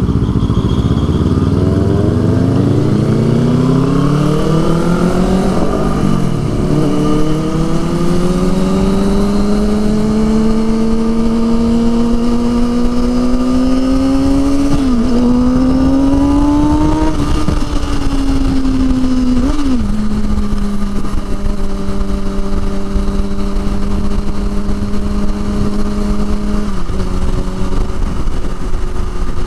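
Motorcycle engine pulling away, its note climbing for the first six seconds, then a few short dips as gears change, with a steady engine note between them.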